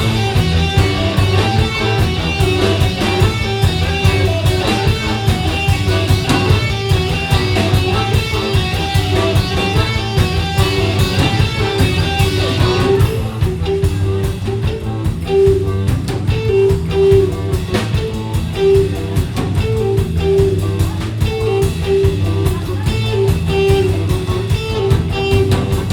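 Live rock band playing an instrumental break between sung verses: guitar over drum kit and bass. About 13 s in the fuller upper layer drops away, leaving a repeated note pulsing over the drums and bass.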